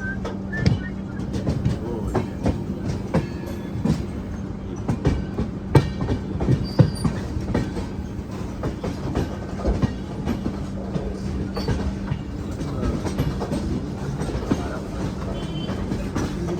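LHB passenger coach running on the rails, heard from on board. The wheels clatter over rail joints with irregular knocks over a steady low rumble and hum.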